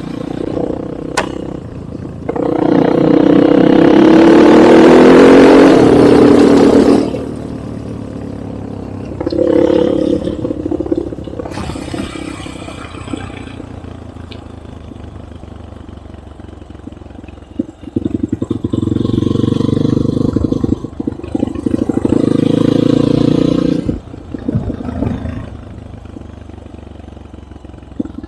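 Enduro motorcycle engine riding under hard throttle, revving up and down. There is a long loud burst a couple of seconds in, a shorter one around ten seconds, and another long one in the second half, with lower running in between.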